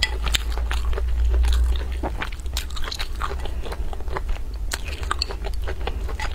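A person chewing crunchy food close to the microphone: a quick, uneven run of crunches and mouth clicks over a steady low hum.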